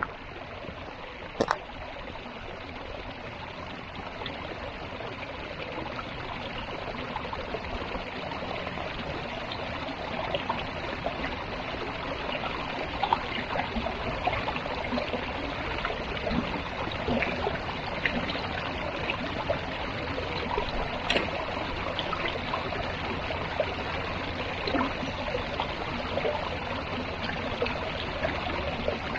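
A small stream running and trickling, a steady rush with scattered little splashes that grows gradually louder. A single sharp click comes about a second and a half in.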